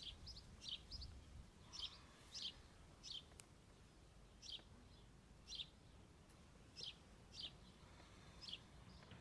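Faint bird chirps: short, high, downward-sliding notes repeating about once a second, over faint low background noise.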